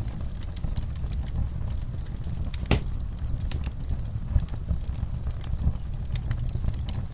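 Wood fire burning in a fireplace: a steady low rumble of the flames with scattered sharp crackles and pops, one louder snap a little under three seconds in.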